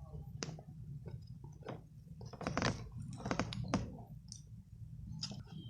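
A string of small, irregular clicks and ticks close to the microphone, thickest in the middle, over a low steady hum.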